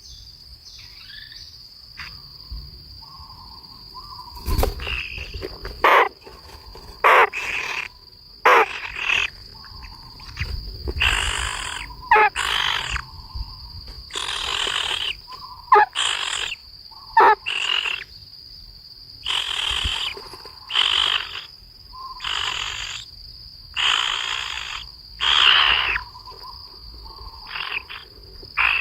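A steady, high insect drone with repeated harsh animal calls over it, each under a second long, coming irregularly about once a second.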